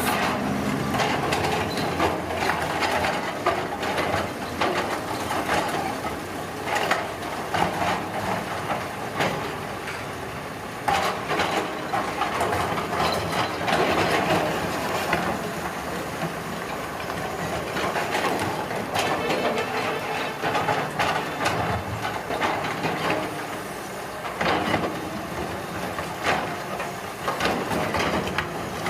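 Heavy road-construction machinery at work: engines running under a steady din, with frequent knocks and clatters.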